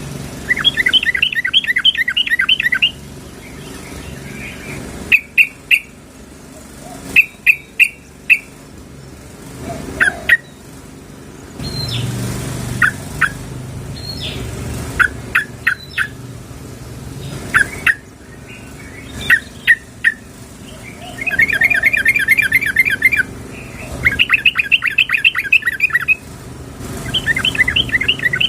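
Yellow-vented bulbuls (trucukan) calling, which the recording presents as a female calling a male. Fast bubbling trilled phrases of about two seconds alternate with short single chirps and paired notes, and the trilled bursts come back near the end.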